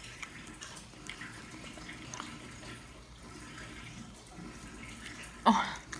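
Faint wet chewing and lip-smacking of someone eating a soft, sticky cassava cake, with small scattered clicks of the mouth. Near the end comes a short, louder sound from the voice.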